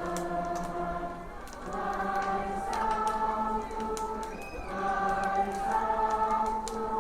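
A group of voices singing together in chorus, a slow song of long held notes sung in phrases with short breaths between them.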